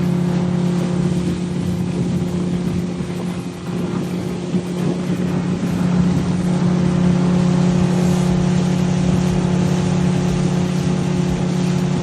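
Motorboat engine running steadily, a low droning hum, a little louder from about halfway through.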